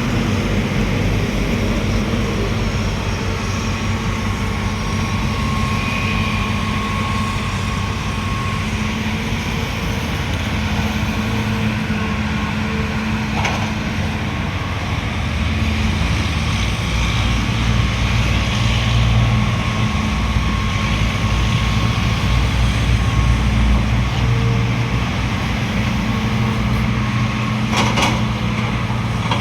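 Heavy diesel truck engine running steadily, louder and deeper for several seconds in the middle, with a couple of sharp knocks.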